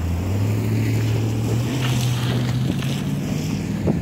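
Motor vehicle engine accelerating, its hum climbing steadily in pitch over a few seconds, with wind buffeting the microphone.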